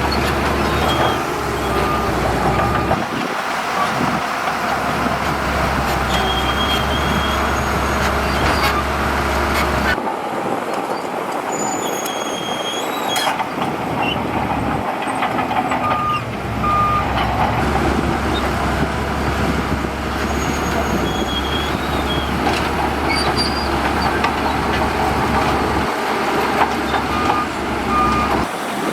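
Heavy diesel construction machinery running steadily under load: dump trucks and a bulldozer working sand. Short paired beeps from a reversing alarm come several times.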